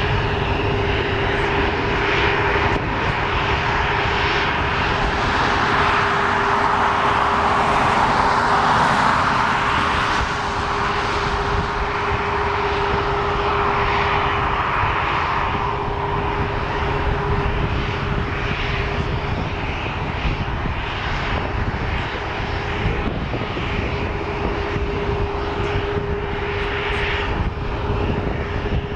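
Jet airliner engines, a rushing roar that swells to its loudest about a third of the way in and then fades. A steady hum runs underneath throughout.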